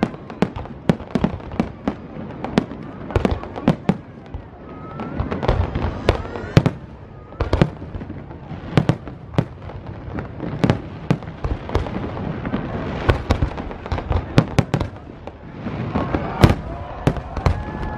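Fireworks display: a dense, irregular string of sharp bangs and crackles, several shells a second, with a few whistling glides in the middle and near the end.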